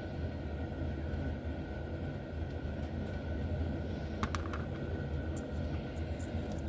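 Steady low hum with a few faint light clicks, a small cluster about four seconds in, from tiny parts and tweezers being handled while a brush spring is fitted into an HO slot car motor.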